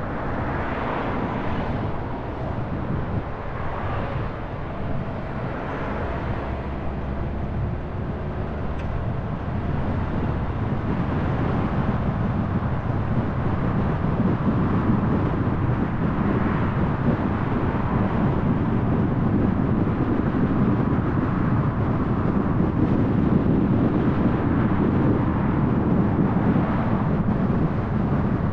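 A car driving along a road: steady engine and tyre noise that grows a little louder about a third of the way through.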